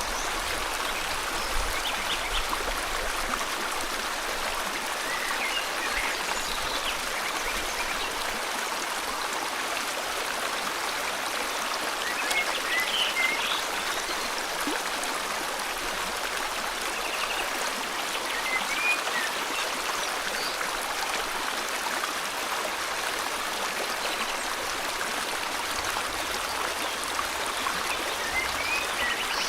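River water flowing steadily, with short bird chirps every few seconds.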